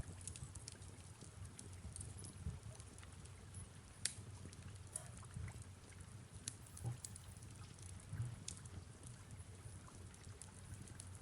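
Fireplace ambience: a fire crackling with scattered sharp pops over a low steady rumble, with soft rain falling.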